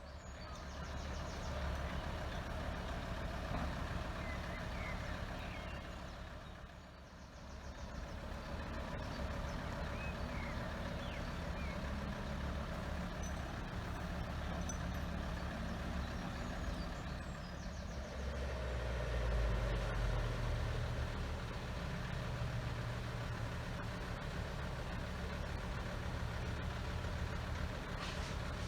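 Heavy lorry's diesel engine running steadily, growing louder for a few seconds about two-thirds of the way through.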